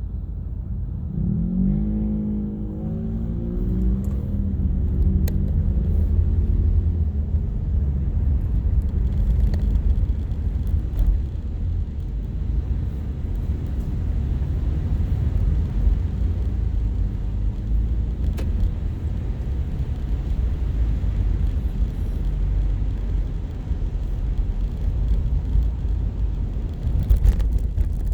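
Steady low road and engine rumble inside a moving car. For a few seconds near the start, a wavering pitched tone sounds over it.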